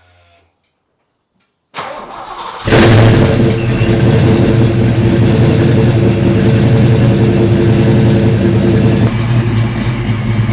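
Supercharged 1989 Ford Mustang 5.0 (302 V8) cold start after sitting about two weeks: the starter cranks briefly about two seconds in, the engine catches almost at once and settles into a loud, steady high idle. The idle eases down slightly near the end.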